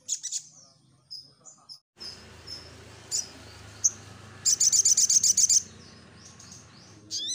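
Sogon (sogok ontong), a sunbird, calling with high thin chirps and short notes. Near the middle comes a fast rattling trill of about ten notes a second, over a steady low background noise.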